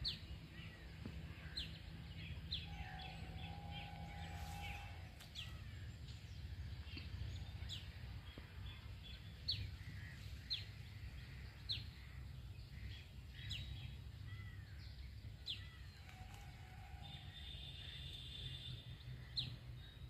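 Several birds calling: scattered short, sharp high chirps throughout, a lower held call twice, and a brighter high note held for a couple of seconds near the end, over a steady low rumble.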